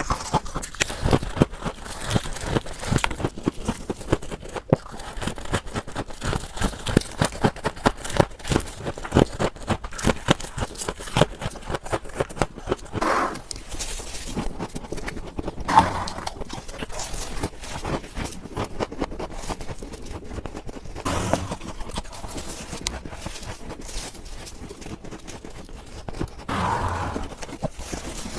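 Crunching of refrigerator freezer frost being bitten and chewed: a dense run of crisp crackles, with four louder, longer crunches spread through it.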